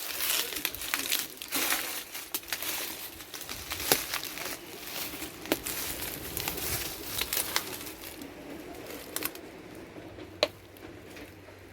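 Crinkling and crackling of litter being gathered by hand, with many sharp snaps; it quietens after about eight seconds.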